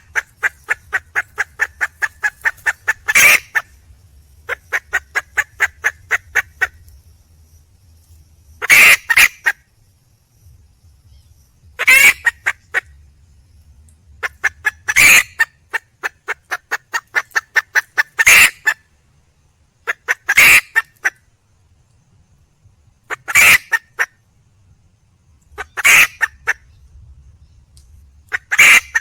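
Wild junglefowl hen calling for a mate: short loud calls repeated about every three seconds, with runs of rapid clucks, about five a second, in between.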